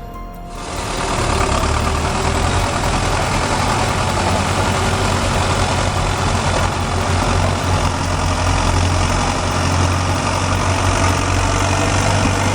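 Tractor engine running steadily with a heavy low hum, starting about half a second in.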